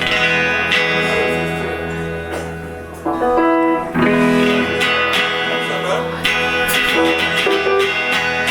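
Live band playing an instrumental passage: guitar chords ring out over a steady bass line, with a few sharp percussive hits partway through.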